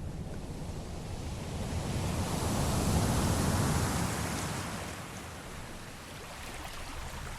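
Sea waves washing: one swell of surf noise builds to a peak about three seconds in and then falls away.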